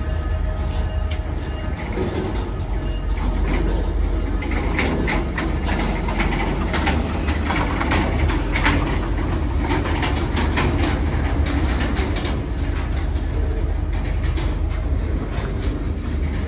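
Train cars rolling past with a steady low rumble, the wheels clicking and clattering over the rail joints, the clatter busiest midway through.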